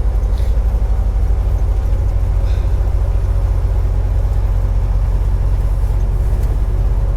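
Semi-truck diesel engine idling: a steady low rumble with a fine, even pulse.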